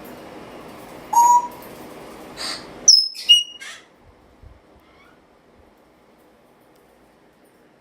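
Black-headed caiques calling: about five short, shrill whistles and squawks in quick succession over the first half, the first a slightly longer rising note.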